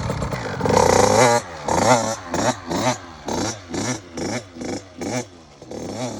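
Dirt bike engine revving hard, then revving up and down in quick repeated pulses, about two a second, growing fainter toward the end.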